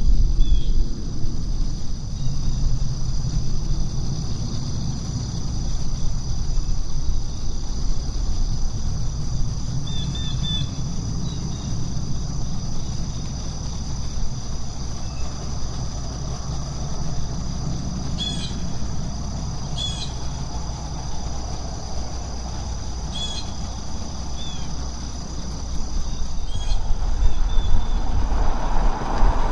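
Steady, high insect chorus with a bird giving short chirps a handful of times, over a constant low rumble; a louder noise swells in near the end.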